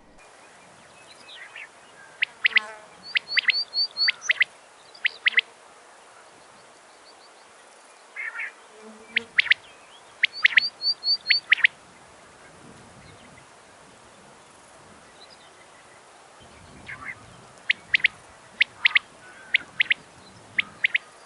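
A wild songbird singing in three bouts separated by pauses, each a string of sharp, high, quick notes, with a short run of four quicker notes in the first two bouts.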